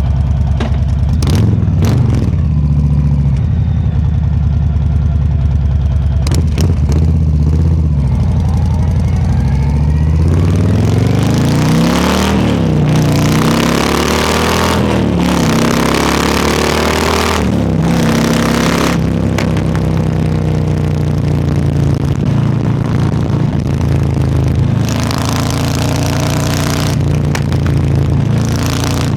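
Harley-Davidson Low Rider S's Milwaukee-Eight 117 V-twin running at low revs, then pulling away, its revs rising and dropping repeatedly through gear changes from about a third of the way in. Wind rush builds over the engine as speed picks up.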